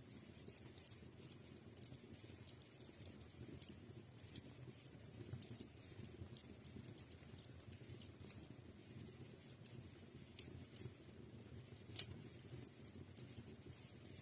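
Wood fire crackling in a fireplace: scattered sharp snaps and pops over a soft, low rumble of flame, the loudest pop about twelve seconds in.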